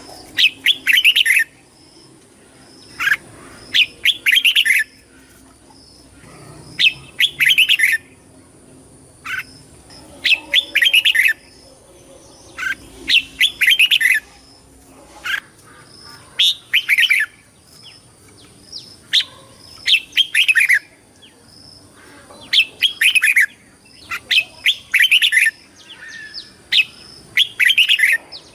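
Red-whiskered bulbul singing: short, loud, warbling whistled phrases, each about a second long, repeated every couple of seconds.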